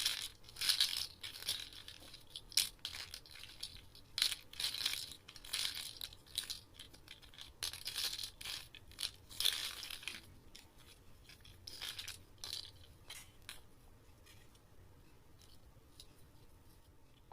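Plastic toy building bricks being handled, with irregular clicks, clatters and rustling. It is busy for most of the stretch, then thins to a few scattered clicks near the end.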